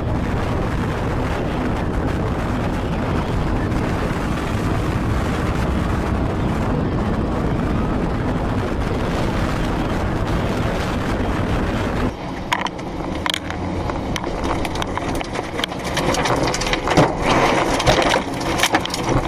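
Snow avalanche rushing down, a loud steady rumbling rush with wind buffeting the microphone. About twelve seconds in it cuts off abruptly to a quieter scene with scattered knocks and crashes.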